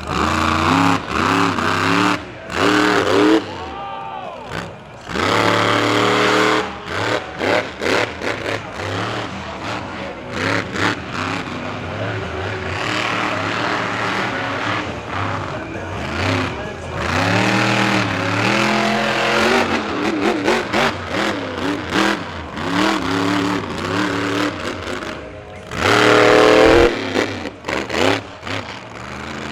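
Monster truck engine revving hard again and again, its pitch climbing and dropping in repeated bursts as the throttle is worked. The loudest rev comes near the end.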